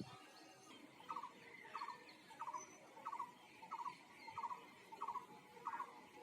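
An animal's call: a short, trilled chirp repeated evenly, about three every two seconds, starting about a second in.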